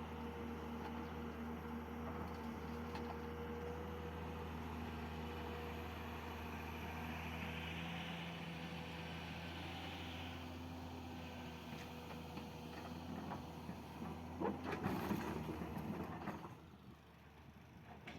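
L&T Komatsu excavator's diesel engine running steadily, with a short loud burst of clattering and rattling about fifteen seconds in, after which the sound drops away.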